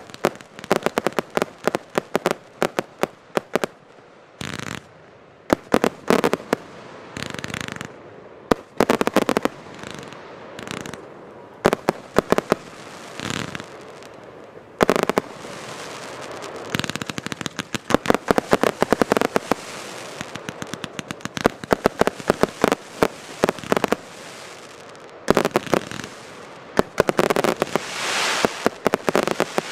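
Rubro 'Event Thunder and Roses' (RVW 872) firework cake firing volley after volley. Sharp bangs come in quick runs, broken by hissing stretches of about a second.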